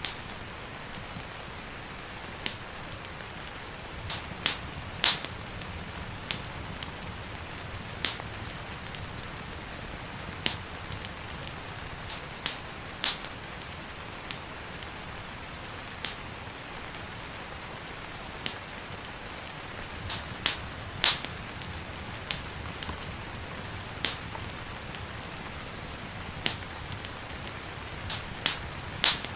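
Wood fire crackling, with irregular sharp pops every second or two, over a steady hiss of gentle rain.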